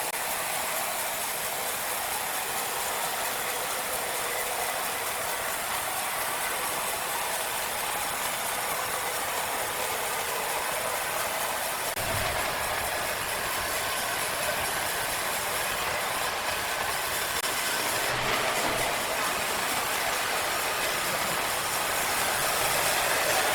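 Sawmill machinery running steadily: a continuous even noise, with a brief low knock about halfway through and another a little later.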